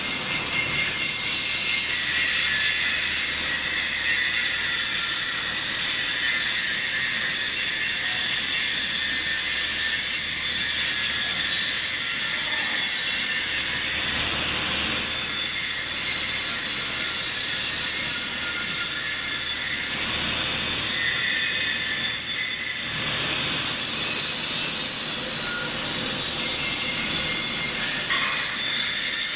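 Electric arc welding: a steady, harsh high-pitched hiss of the arc that drops briefly a few times before carrying on.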